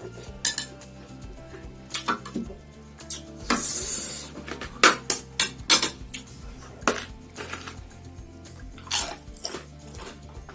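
Eating utensils clinking and scraping against a plate: a dozen or so sharp, separate clinks, with one longer scrape about three and a half seconds in. Background music plays underneath.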